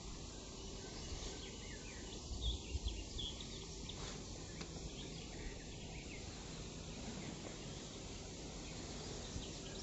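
Faint outdoor ambience: a steady hiss with scattered short, high bird chirps, and a few low bumps about two and a half seconds in.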